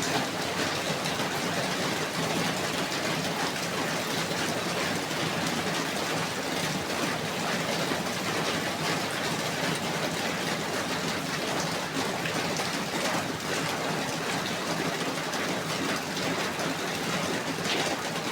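Steady rain falling, a constant even hiss with many fine drop patters.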